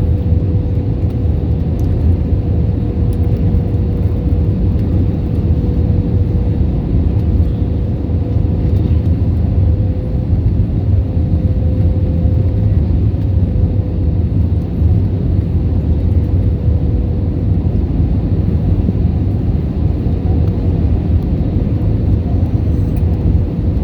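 Jet airliner cabin noise: a steady low rumble of engines and airflow with a constant hum, unchanging in level.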